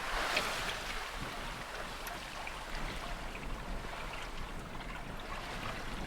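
Sea water splashing and trickling along the hull of a sailing yacht under way. A wave washes past near the start, then small splashes patter on steadily.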